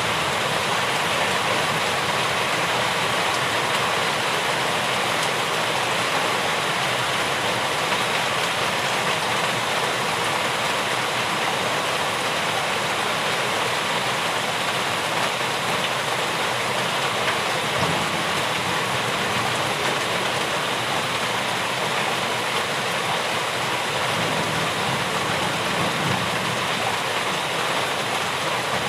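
Steady, heavy rainfall: a dense, even hiss of falling rain with no let-up.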